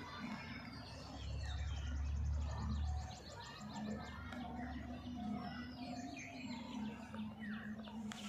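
Several birds chirping and calling, many short overlapping chirps throughout. A low rumble runs for about two seconds near the start.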